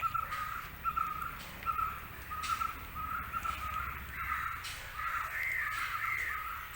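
A bird calling over and over in short, evenly spaced calls, about one and a half a second, with a second, higher warbling call about five seconds in.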